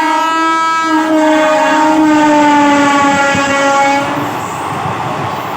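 Railway locomotive horn sounding a long blast, briefly broken about a second in, its pitch sliding slightly lower as the train passes, then cutting off about four seconds in, leaving the steady rumble of the passing train.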